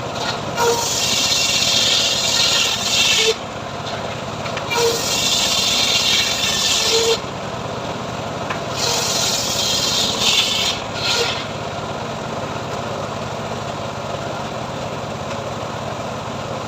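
Homemade engine-driven sawmill running. Its blade cuts into sengon wood in three stretches of two to three seconds each over the first eleven seconds, then the machine runs on steadily without cutting.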